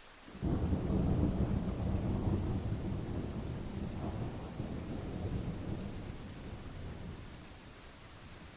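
A thunderclap with a sudden crack about half a second in, then a long low rumble that slowly dies away, over steady rain.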